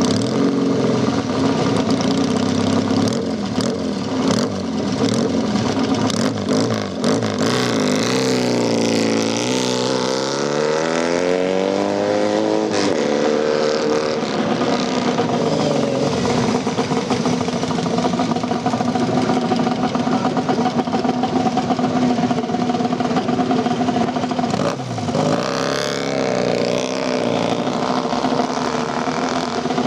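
Motorcycle engines running, with one engine's revs dropping and then climbing about nine seconds in and again near the end.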